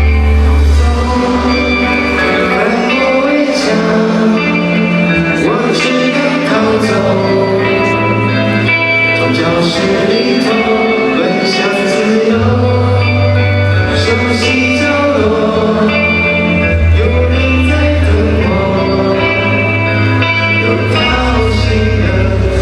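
Live pop-rock band music with singing, over long held bass notes that change every few seconds.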